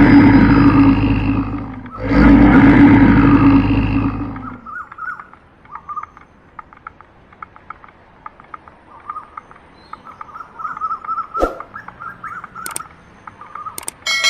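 A big cat roaring twice, two long, loud roars one right after the other. Then faint bird chirps with a few sharp clicks near the end.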